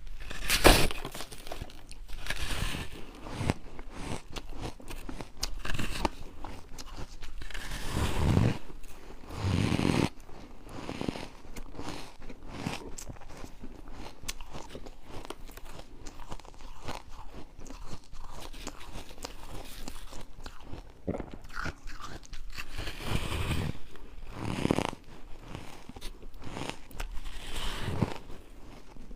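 Someone biting and chewing refrozen ice close to the microphone: irregular crunching and crackling, with louder bites every few seconds.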